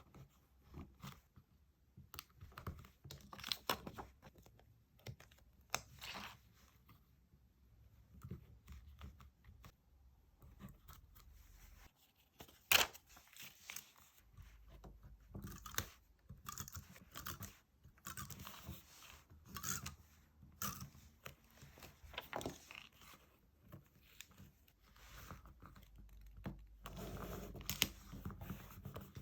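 Stickers and paper being handled: a string of irregular peeling, rustling and crinkling sounds with small taps. One sharp tap stands out about 13 seconds in.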